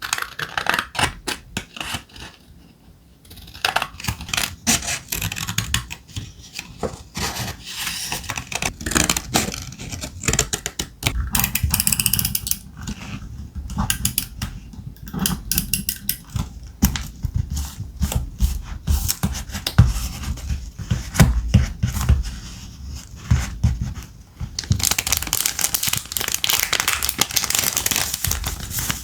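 Thick paper being handled: crisp rustling, scraping and light taps, with a short lull early on and a steadier, denser stretch of paper noise in the last few seconds.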